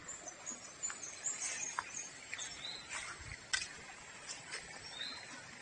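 Birds chirping in short, high, repeated calls over a faint steady outdoor hiss, with a few light clicks about three seconds in.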